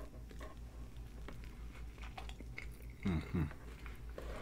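Close-miked chewing of a bite of McDonald's burger, with small wet mouth clicks. About three seconds in come two short closed-mouth hums, each falling in pitch, like an "mm-mm" of enjoyment.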